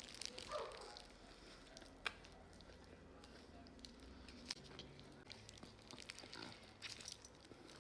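Faint, soft chewing of a mouthful of burrito, with a few small clicks.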